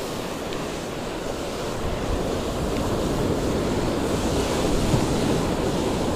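Ocean surf breaking and washing on the beach, with wind buffeting the microphone. The wash swells louder about two seconds in.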